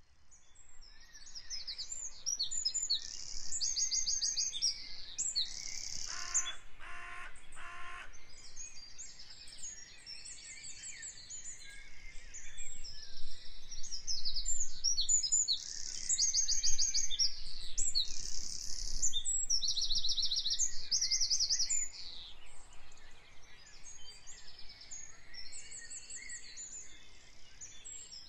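Many small birds chirping and trilling, their high calls overlapping throughout, fading up from silence at the start. About six seconds in, a lower, rapidly repeated call joins for about two seconds.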